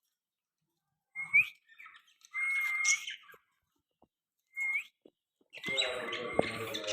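Pet parrot calling: short rising whistles, a held whistle of about a second that sweeps up at its end, then a busier, voice-like stretch of chatter near the end.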